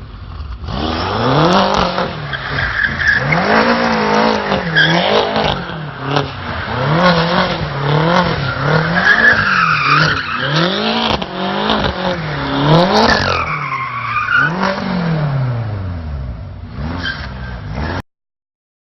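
BMW M5 drifting: the engine revs up and falls back over and over, about every second and a half, with tyre squeal over it. The sound cuts off suddenly near the end.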